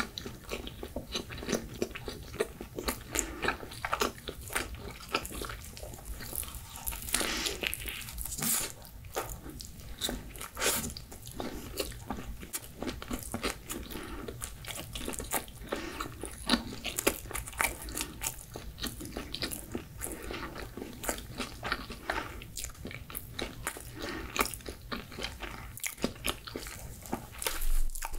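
Close-miked chewing of pizza: a continuous run of small crunches and bites as the crust and toppings are chewed.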